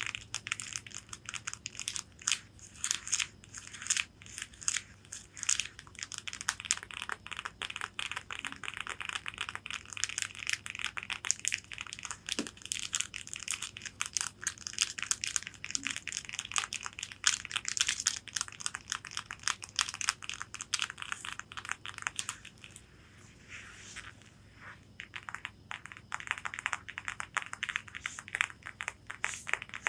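Long fingernails tapping and scratching on a corset's fabric: a dense run of quick sharp clicks mixed with scratchy rustling, easing off briefly about three-quarters of the way through.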